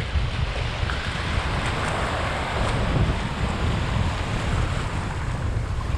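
Wind buffeting the microphone in a continuous uneven rumble, over the steady wash of surf.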